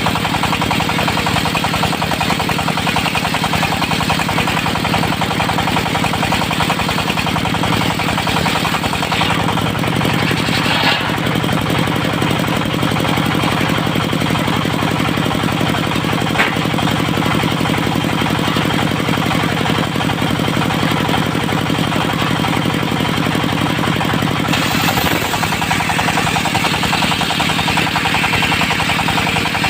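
Diesel engine of a portable circular-saw sawmill running steadily, with a fast knocking beat. The sound brightens near the end.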